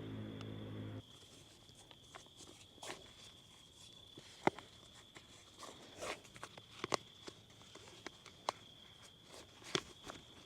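Background music ending about a second in, then quiet scattered rustles and a few sharp clicks over a faint steady high tone.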